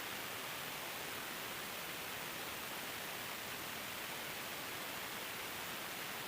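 Steady, even hiss like static, unchanging throughout, with no tool strikes or other distinct sounds.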